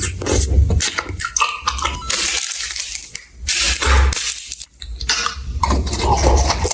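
Close-miked eating sounds: irregular crunching, wet chewing and mouth noises.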